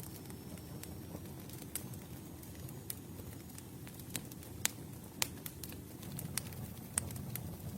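Campfire burning: a low steady rumble of flames with irregular sharp crackles and pops of burning wood.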